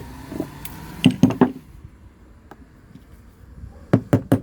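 Metal socket being tapped to drive a new seal squarely into the outboard's trim cylinder cap: three sharp taps about a second in, then a quicker run of taps near the end.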